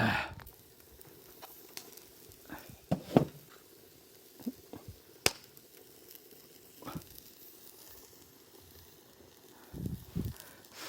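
Campfire crackling: sparse sharp pops and knocks with quiet stretches between, the loudest a short burst at the very start.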